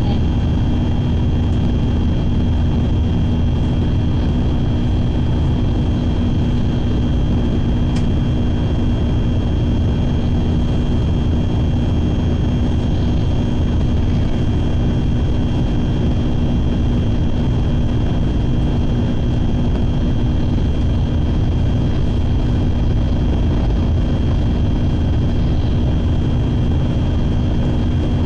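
Steady running noise of a Shinkansen train at speed, heard inside the passenger car: a constant rumble with a few steady hums over it.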